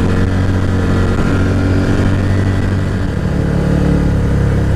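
ATV engine running steadily under way, its pitch shifting slightly about three seconds in.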